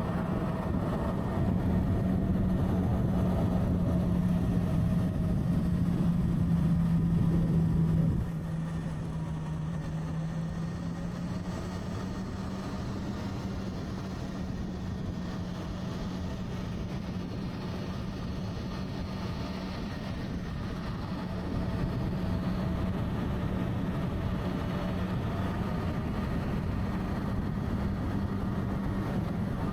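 Motorcycle engine running while riding, with a steady droning tone. The pitch climbs slightly, then drops sharply about eight seconds in as the throttle is rolled off; it runs steadily after that and picks up a little about two-thirds of the way through.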